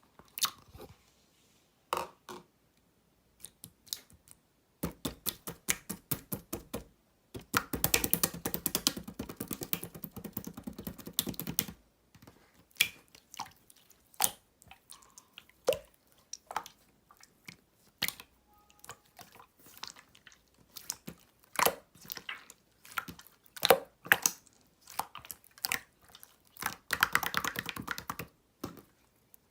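Green clear slime being squeezed and worked by hand, making sticky clicks and pops. There are dense runs of rapid crackling about five, eight and twenty-seven seconds in, with single pops in between.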